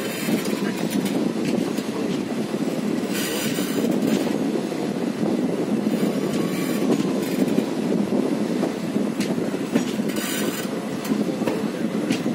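Passenger train running round a curve, heard from an open coach doorway: a steady rumble of the coaches with wheels clattering over the rails and faint wheel squeal now and then. Two brief bursts of hiss come about three and ten seconds in.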